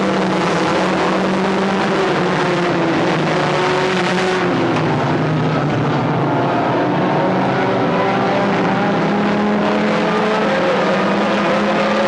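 Several stock car engines running hard at once, their pitches rising and falling slowly as the cars accelerate and ease off.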